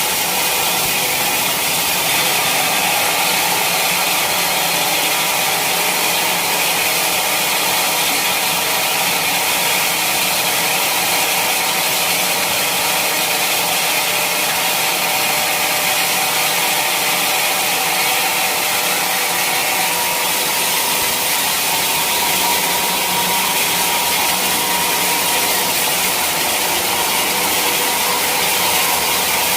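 Sawmill saw cutting steadily through a teak log, a continuous, even machine noise with a faint steady whine.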